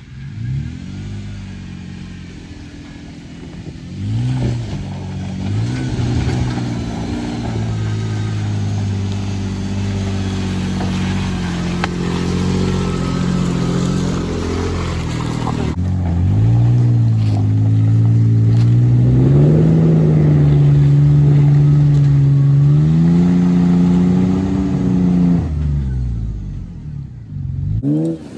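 Off-road truck engine revving up and down under load as it crawls along a rough trail in low gear; the revs climb and fall back several times and drop away near the end.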